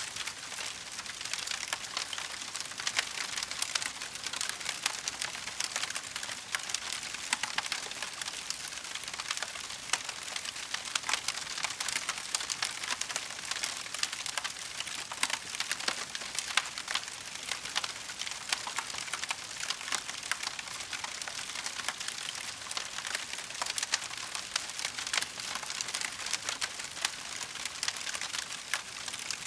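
Wood fire crackling steadily: a dense stream of small pops and snaps from burning logs, with no flames roaring and no single large crack standing out.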